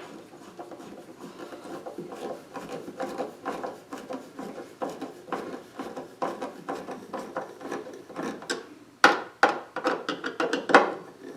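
A small hinge screw being driven by hand into the wooden box: irregular scratchy rubbing and small clicks of screwdriver and screw turning in the wood, with two sharper clicks near the end.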